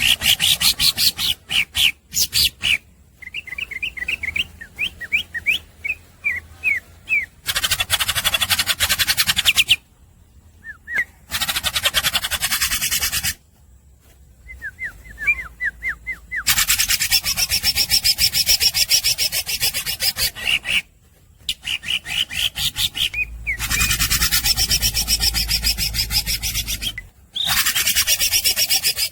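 Green leafbird (cucak ijo) singing non-stop. Its song is made of bursts of very fast, harsh rattling trills a few seconds long, broken by short pauses and by runs of quick rising chirps.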